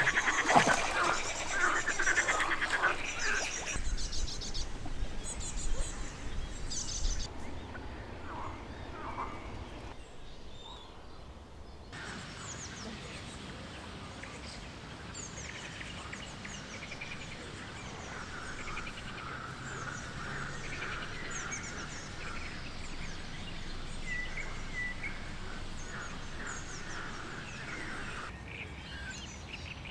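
Several birds chirping and singing, many short high calls, over a steady outdoor background hiss; the background changes abruptly a few times.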